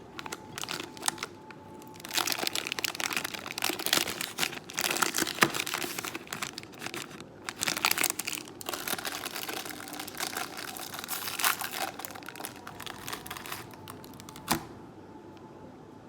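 Packaging crinkling and rustling as it is handled, in irregular bursts for about twelve seconds, with one sharp click near the end.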